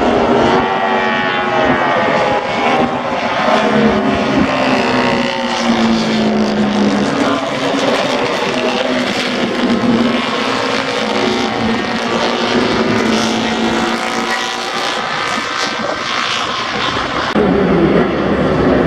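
Engines of several pre-1972 vintage racing motorcycles running hard on a track, overlapping, their pitch sliding up and down as they go by. A deeper, louder engine sound comes in near the end.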